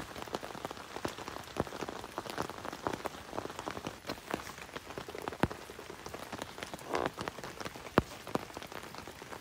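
Medium rain pattering steadily on a camping tarp fly, with water dripping off its edge. Many small sharp ticks of drops, one much louder about eight seconds in.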